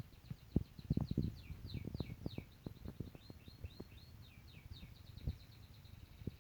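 A bird's rapid series of high chirps, some sliding down in pitch, over scattered low thumps and knocks.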